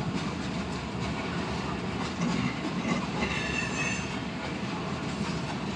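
Freight train of tank cars rolling past, its wheels rumbling steadily on the rails, with a brief high wheel squeal about three seconds in.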